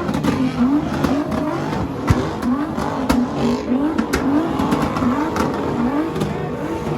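Car engine revving hard over and over, its pitch climbing and dropping back about twice a second.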